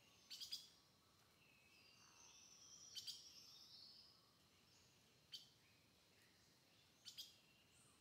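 Near silence in a forest, broken by faint bird calls: a handful of short, sharp high chirps and one longer high call about two seconds in.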